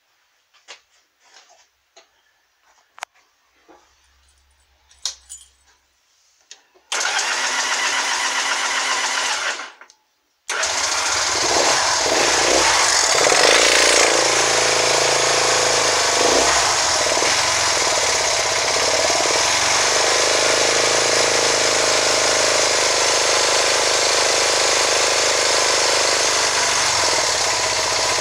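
Honda CB200's parallel-twin engine: a few faint clicks, then about three seconds of cranking that stops, and on the next try the engine catches and keeps running. Its pitch rises and falls for a few seconds in the middle as the throttle is blipped, then it settles back to running steadily.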